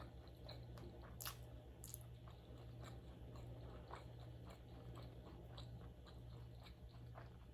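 Faint close-miked chewing of sushi, with scattered small wet mouth clicks, a couple of sharper ones near the start, over a steady low hum.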